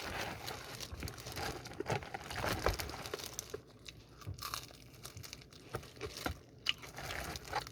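Crispy seasoned fried chicken being torn apart and crunched close to the microphone: soft, scattered crackles and crinkles.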